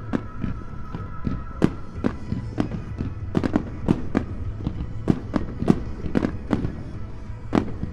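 Fireworks bursting in rapid, irregular succession, several sharp reports a second over a steady low rumble.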